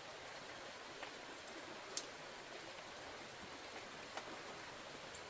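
Rain falling steadily, an even hiss with a few sharp drip sounds of drops landing, the loudest about two seconds in.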